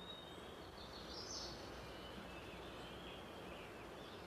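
Faint outdoor nature ambience: an even hiss with a few short, high bird chirps and twitters, the loudest cluster about a second in.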